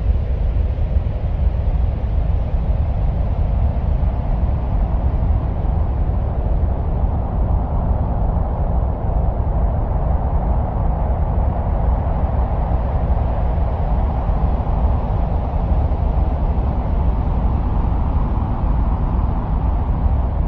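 Steady, deep, wind-like rumbling noise, presented as the sound of wind on Mars. It runs on without a break, heaviest in the low bass, with a slight swell in the middle.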